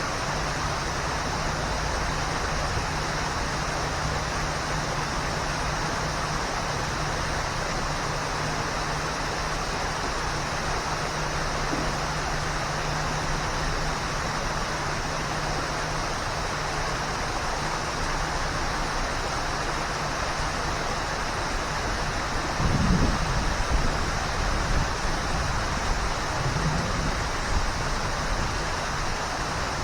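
Waterfall: a steady rush of falling water. About three-quarters of the way through, uneven low rumbles join in.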